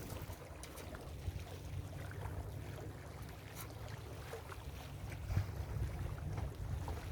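Ocean surf washing onto a beach, under a steady low rumble of wind on the microphone, with a slight swell a little past the middle.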